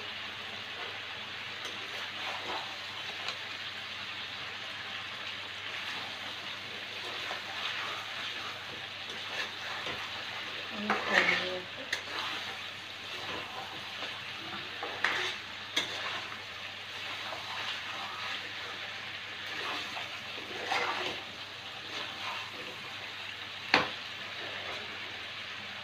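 Mutton masala sizzling in oil in a non-stick kadai while a spatula stirs and scrapes through it. Now and then the spatula knocks against the pan, with one sharp clack near the end. This is the kosha stage, with the oil separated from the masala.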